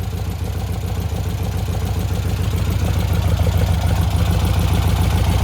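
1800cc air-cooled VW flat-four engine idling steadily, getting gradually louder, while its twin carburetors are being adjusted and the idle is raised a little.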